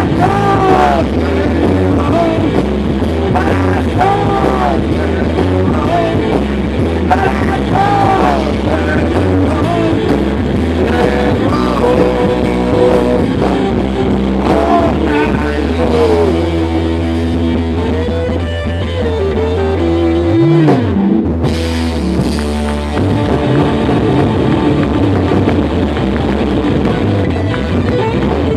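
Rock band playing an instrumental passage, guitar with bent notes over bass and drum kit. About twenty seconds in, a note slides steeply down and back up.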